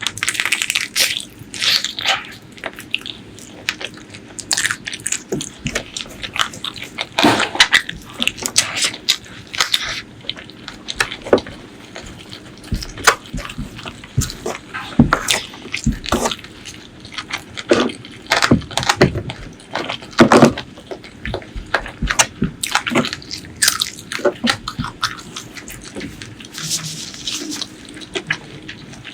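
Close-miked eating sounds from a meal of spicy chicken feet and chicken curry: wet chewing, biting and lip smacking, heard as irregular sharp clicks and squelches.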